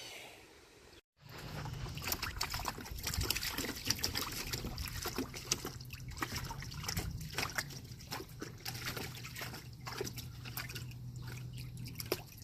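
Water trickling and sloshing with many small irregular splashes, starting about a second in.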